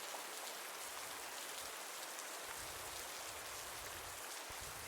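Steady rain falling, an even hiss of drops on a surface with no distinct individual patters standing out.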